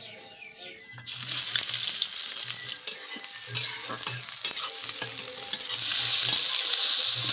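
Sliced onions frying in hot oil in a metal kadai, a loud sizzle that starts suddenly about a second in, with a spatula scraping and clicking against the pan as they are stirred. Near the end the sizzle grows louder as raw chicken pieces go into the hot pan.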